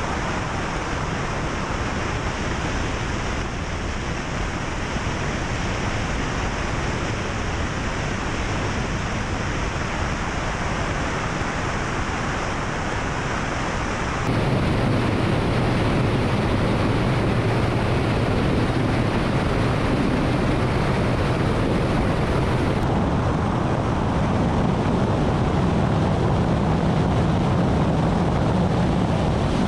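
Mi-28 attack helicopter's engines and rotor running in flight, a steady, heavy rushing noise that changes abruptly at cuts between shots, fuller and louder in the low end from about halfway through.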